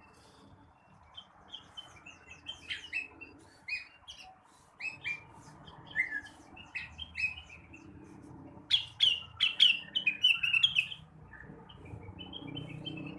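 Blue-winged leafbird (rengganis, cucak wilis) singing: a varied run of short chirps and whistled notes, busiest and loudest about nine to eleven seconds in.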